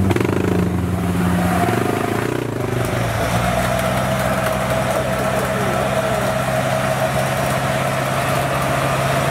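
An off-road 4x4's engine running steadily at low revs, close by. A thin, steady higher tone joins it about a second and a half in.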